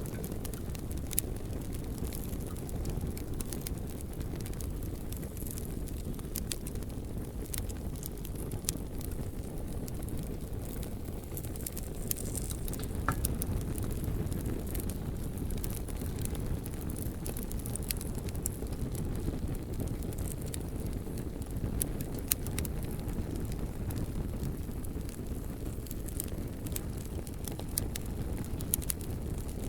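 Campfire burning and crackling, with frequent sharp snaps and pops over a steady low rumble.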